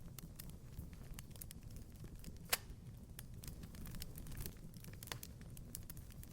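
Wood fire crackling in a fireplace: irregular small snaps and pops over a low rumble of the flames, with one sharp, loud pop about two and a half seconds in.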